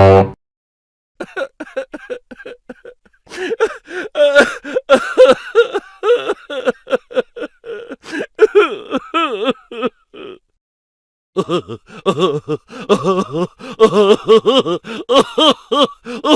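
Comedy sound-effect clip of a person's voice making rapid, short laughing sounds, the pitch bending up and down, with a pause of about a second around ten seconds in. A short, loud low tone sounds right at the start.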